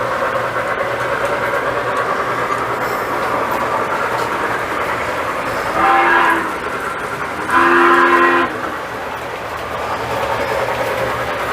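Lionel model train running steadily on the track, its electronic horn sounding twice: a short blast about halfway through, then a longer, louder one a second or so later, each a steady two-note chord.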